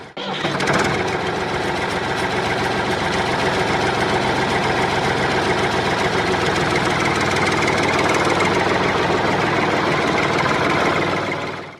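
Engine running steadily at an even idle, with a knocking, throbbing character; it starts and stops abruptly at edits.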